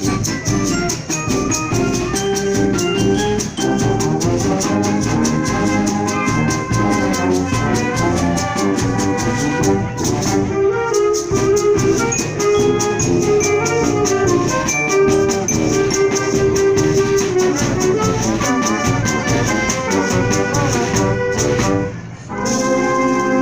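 Symphonic wind band playing, brass and drums to the fore, with a busy rhythmic beat. About a second before the end the music breaks off briefly, then comes back as a long held chord.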